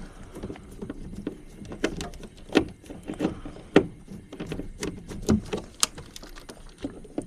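Irregular clicks and knocks of metal parts being handled while a heat-pump air handler's sheet-metal cabinet is taken apart.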